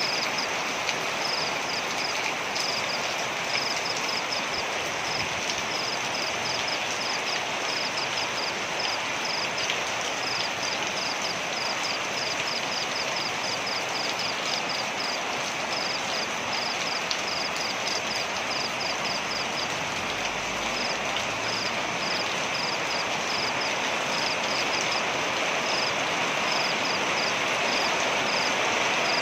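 Waterfall rushing in a steady, even roar of falling water. Over it run quick trains of high, short chirps from small animals.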